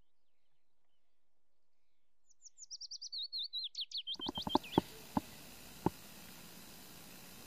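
A songbird singing a quick, speeding-up run of high whistled notes that each slide downward, lasting about two seconds and starting a couple of seconds in. Right after it come several sharp clicks over a steady background hiss.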